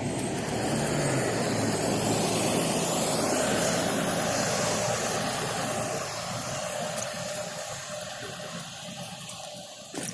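Road noise from a motorcycle ride: wind rushing and the engine running, swelling over the first few seconds and then easing off.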